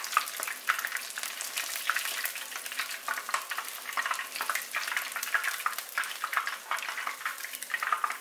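Tempura-battered puffer fish pieces frying in a pan of hot oil: a steady sizzle with a dense crackle of many small pops.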